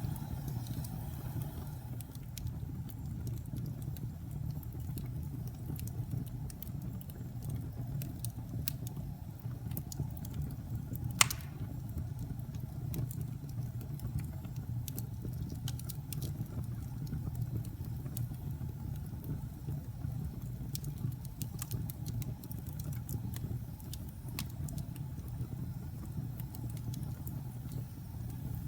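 Wood fire crackling, with scattered small pops over a steady low rumble of the flames, and one loud sharp pop about eleven seconds in.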